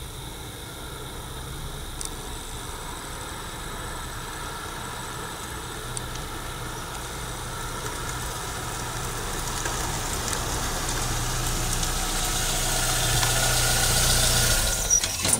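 A Nissan compact MPV's engine running as the car drives slowly up and pulls in close, its steady low hum growing louder until it stops just before the end.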